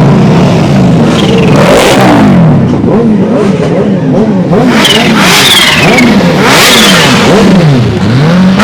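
A car engine revved hard over and over, its pitch climbing and dropping back roughly every second.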